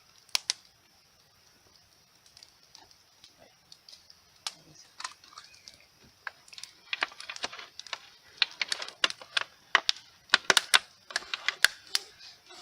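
Thin plastic bottle being cut and worked to widen a hole, giving sharp clicks and crackles: two at the start, then after a quiet spell an uneven run of quick clicks that grows denser through the second half.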